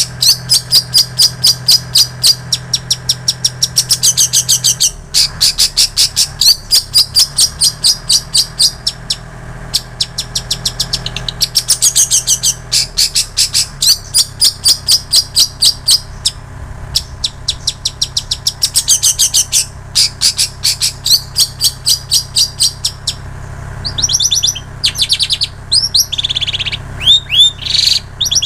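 Long-tailed shrike (cendet) singing a mimicked repertoire of plain prinia and canary phrases. It gives long runs of sharp high chirps, about four a second, broken by short pauses. Near the end it switches to quicker, curving notes.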